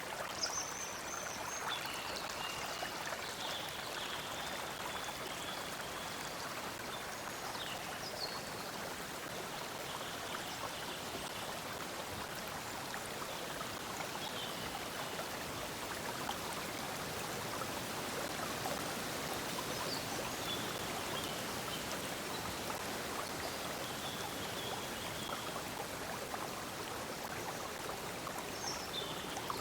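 A stream of water flowing and babbling steadily, with birds giving short high chirps and calls here and there over it.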